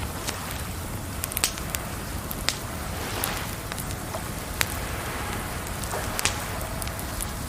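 Wood fire crackling, with irregular sharp pops every second or so over a steady rush of running water.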